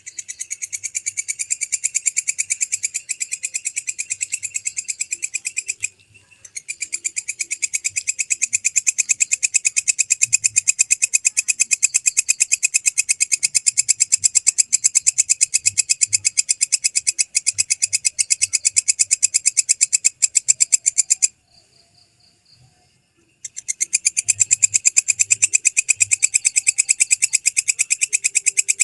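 Walang kecek bush cricket (a Mecopoda katydid) singing: long trains of rapid, evenly spaced, high-pitched clicking pulses. The song breaks off briefly about six seconds in, and again for a couple of seconds about two-thirds of the way through, before starting up again.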